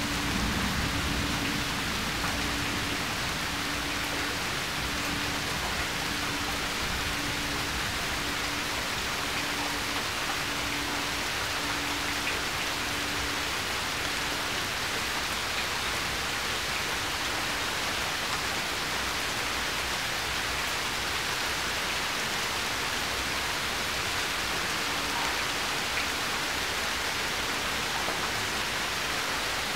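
Steady rainfall, an even hiss of rain falling on a surface that does not change in strength.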